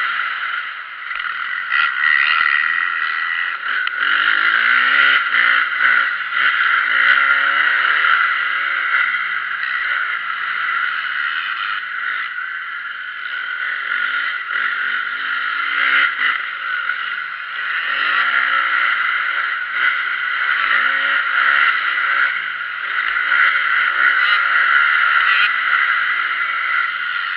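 Motocross bike engines revving up and down again and again as they ride the track, with a loud steady high-pitched noise above them.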